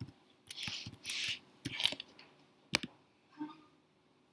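Computer keyboard keys and mouse clicks: a few scattered sharp clicks with soft rustly sounds between them.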